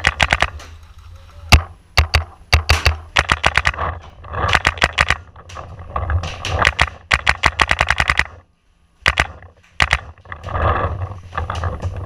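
Paintball markers firing in rapid strings, bursts of sharp pops at roughly eight to ten shots a second, with a brief silence about eight seconds in.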